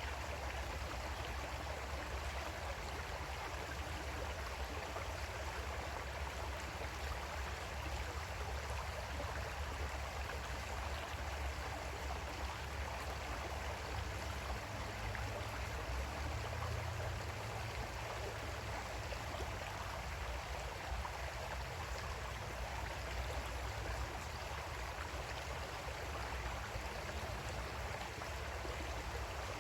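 Creek water flowing steadily over stones, an even rushing and gurgling with no breaks.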